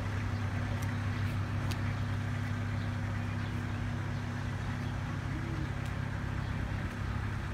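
Diesel engines of a pair of Class 156 Sprinter multiple units running with a steady low drone, holding one even pitch.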